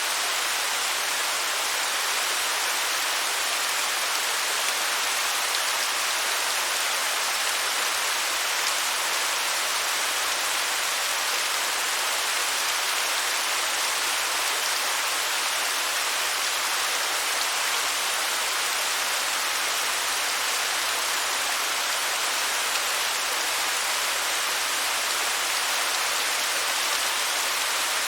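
Waterfall: a steady, even rush of falling water, hissy and bright, with no changes.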